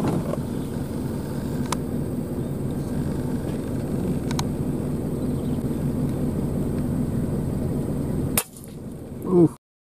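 Car engine running, heard from inside the cabin as a steady low rumble, with a couple of faint clicks. About eight seconds in a sharp crack sounds and the rumble stops abruptly.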